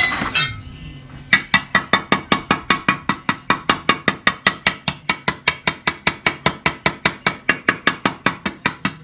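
Rapid, even hammer blows on steel exhaust pipe held in a vise, about five a second, each with a metallic ring, as the pipe is beaten into a bend. A couple of lighter metal clinks come just before the hammering starts, about a second in.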